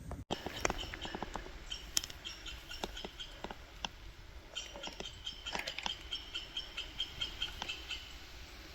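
A small animal's rapid, high-pitched chattering, pulsing several times a second for a few seconds from about the middle, among scattered sharp clicks and ticks.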